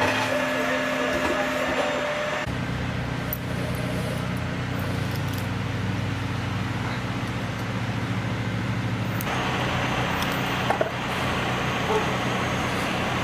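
Engines of heavy machinery running steadily, with the sound changing abruptly at cuts about two and a half and nine seconds in.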